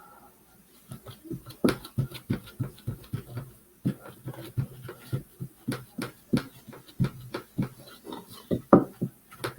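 Irregular light taps and knocks, about two or three a second, from paint being worked onto a small wooden birdhouse by brush and hand.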